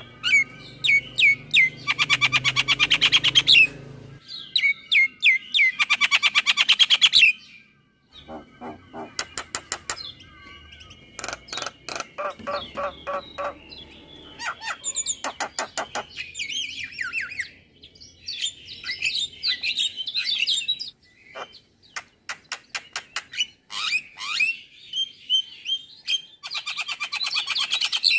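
Male Javan myna (jalak kebo) singing a long, varied song: rapid rattling trills of fast repeated notes alternating with whistles and harsh chatter, in bouts broken by brief pauses.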